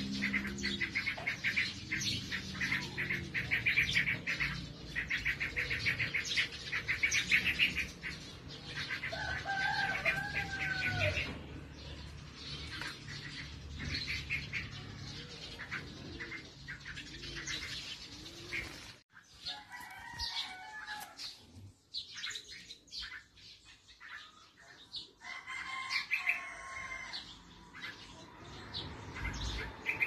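Nestlings chirping in fast runs of short, high cheeps, with other birds calling around them. The chirping is dense at first, then breaks off about two-thirds of the way through and goes on quieter and sparser.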